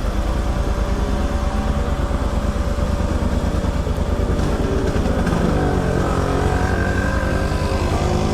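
Motorcycle engine running at low speed with a steady, rapid exhaust pulse; its pitch shifts up and down about five to six seconds in.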